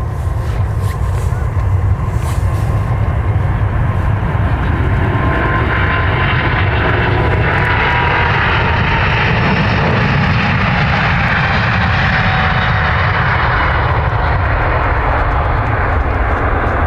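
Jet airliner's engines heard passing close: a loud, steady low rumble with a broad noise that swells toward the middle and eases off near the end. A thin whine slowly drops in pitch as it goes by.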